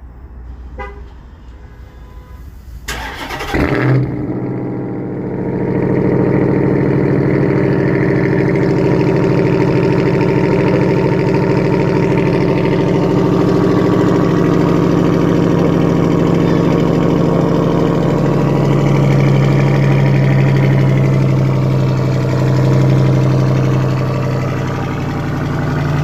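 2021 Ram 1500 TRX's 6.2-litre supercharged Hemi V8 cold-started by remote. The starter cranks about three seconds in and the engine fires a second later, then settles into a loud, steady fast idle.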